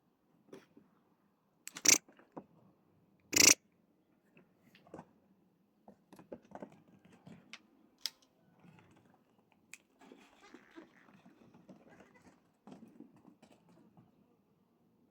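Nigerian dwarf goats chewing and rustling, with small crunches and clicks throughout. Two short, loud, sharp noises come about two and three and a half seconds in.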